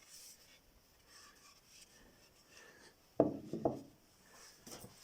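Faint rubbing on wood, then two sharp wooden knocks close together about three seconds in, with a few lighter clicks near the end.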